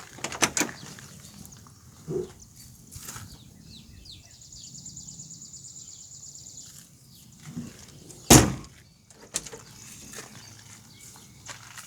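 Scattered knocks and clicks, the loudest a single heavy thud a little past eight seconds in. A high, fast-pulsing trill runs for a couple of seconds in the middle.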